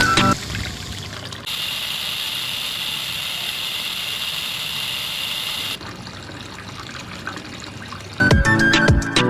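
Water pouring in a steady stream for about four seconds, from a mini water pump model. Background music plays at the start and comes back near the end.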